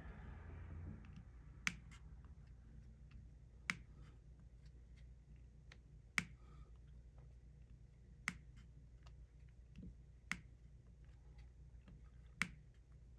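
Diamond-painting drills being pressed onto the adhesive canvas with a drill pen, giving six sharp clicks about two seconds apart with fainter ticks between them.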